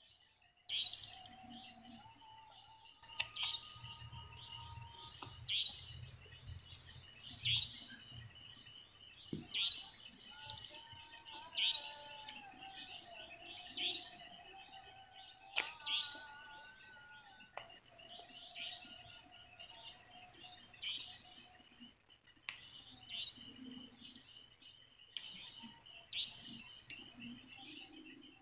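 Birds chirping and calling, with many short sharp chirps and a few longer high buzzing notes every few seconds.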